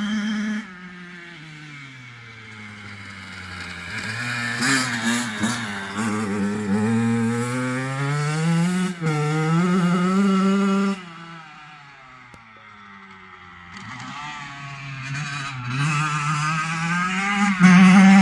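Kawasaki KX85 dirt bike's two-stroke single-cylinder engine, ridden around with the revs repeatedly falling and climbing. It is loud near the start, cuts back sharply under a second in and drops away in pitch, builds again to a high rev from about five to eleven seconds, falls off, then climbs back and is loudest near the end.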